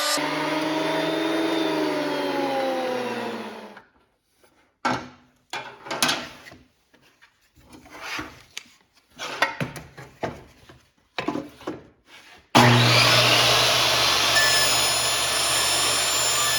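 A woodworking power tool winds down, its pitch falling, and stops. Irregular strokes of rubbing or sawing on wood follow. About three quarters of the way in, a power tool starts up abruptly and runs loudly and steadily.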